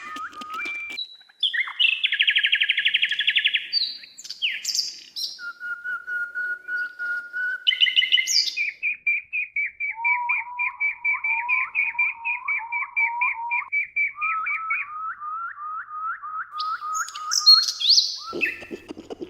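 Songbird singing a varied song: a string of distinct phrases, each a quick run of the same repeated note, changing pitch from one phrase to the next. Near the end a lower, rapid rattling call comes in.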